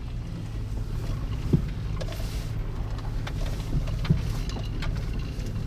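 A vehicle engine running steadily with a low hum, with a few light clicks and knocks over it.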